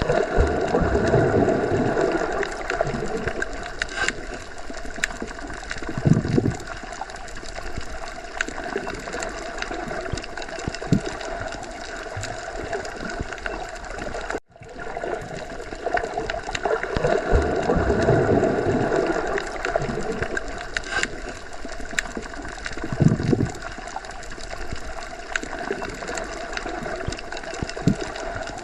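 Underwater ocean ambience: a steady churn of water with gurgling and slow swells, a few low thuds and sharp clicks. The same stretch of about 14 seconds plays twice, with a brief dropout where it restarts about halfway through.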